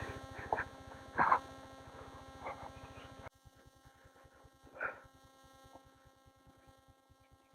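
Motorcycle engine idling faintly, a low, even putter under a steady hum. The beat drops quieter and slower about three seconds in. Faint voices are heard once or twice.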